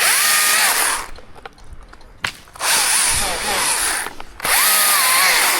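Chainsaw revved in three short bursts, its whine rising quickly to a steady pitch and falling away each time.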